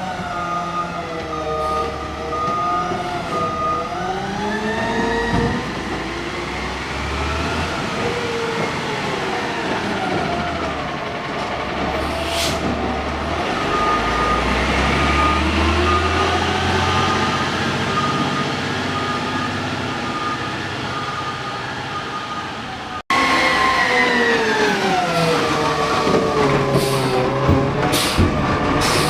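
Garbage truck engine revving up and down over and over, with a reversing beeper sounding at the start and again midway. Near the end an abrupt cut brings in a louder stretch of the same revving.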